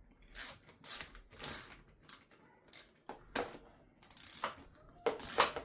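Hand spanner working a small bolt on a motorcycle handlebar mount: a series of short metallic clicking strokes, roughly one a second, the loudest near the end.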